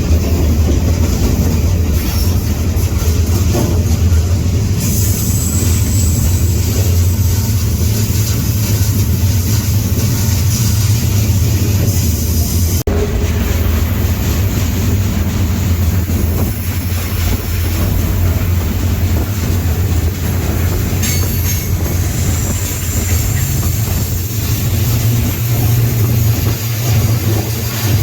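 Freight train rolling along, heard from aboard: a steady low rumble with wheel and rail noise over it, and a sudden momentary dropout about halfway through.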